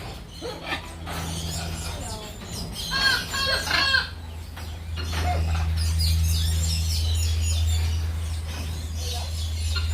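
Birds calling in a cluster of short, quick calls about three seconds in, with fainter calls scattered through the rest, over a steady low hum.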